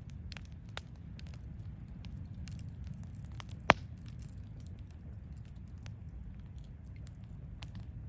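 Wood fire crackling, with scattered small pops and one sharp, loud pop a little over halfway through, over a low steady rumble.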